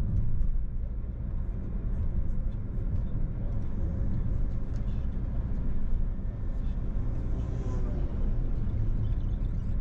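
Car driving along the road: a steady low rumble of road and engine noise.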